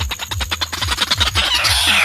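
Watercock calling: a steady series of deep, falling booming notes at about four a second. About one and a half seconds in, a harsher, noisier bird call joins over it and grows louder.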